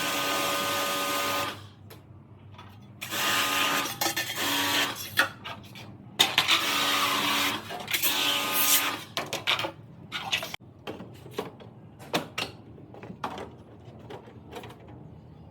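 A small electric motor running with a steady whine and hiss in short bursts, four times in the first nine seconds, then scattered clicks and knocks of tools and parts being handled.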